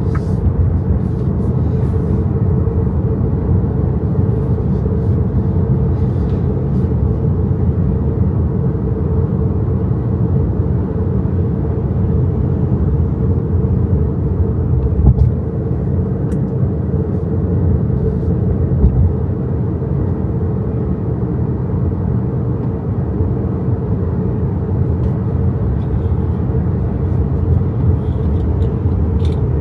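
Road and tyre noise in the cabin of an XPENG G6 electric SUV on the move: a steady low rumble with no engine note, broken by a couple of small bumps about halfway through.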